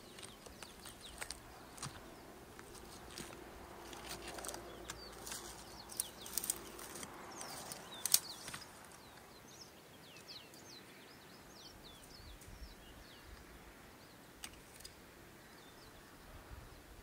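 Scattered sharp clicks and crunches through the first half, the loudest about eight seconds in. Then a bird gives a rapid run of short, high, downward-sliding chirps for about four seconds.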